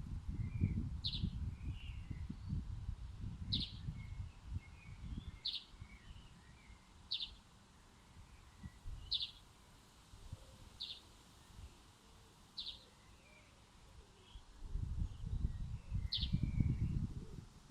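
A songbird repeating one short, high call about every two seconds, with fainter chirps of other birds, over a low rumbling noise that is loudest in the first few seconds and again near the end.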